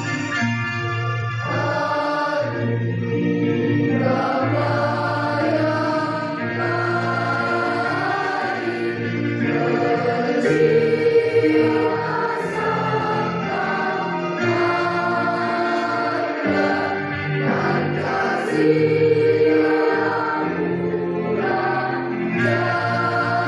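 School choir singing, many voices holding long notes together.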